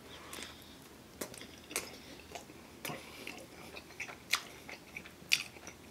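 A person chewing a mouthful of pepperoni pizza close to the microphone, with scattered short mouth clicks.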